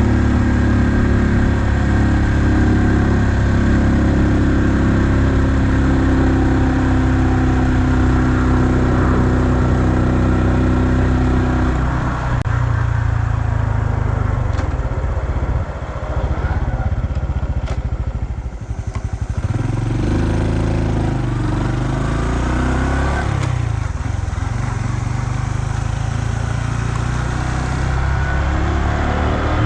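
2020 Honda Super Cub's single-cylinder engine running at steady speed, with wind and road noise. About twelve seconds in the engine note drops and the sound thins as the bike slows, then the engine picks up steady again for the last third.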